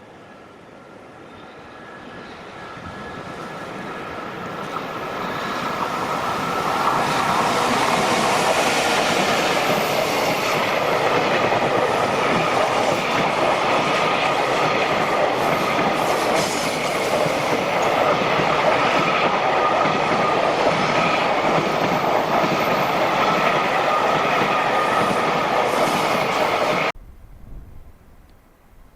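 JR Freight freight train passing on the line: the sound builds over the first seven seconds or so as it approaches, then a long steady rush of wagons running over the rails, cut off suddenly near the end.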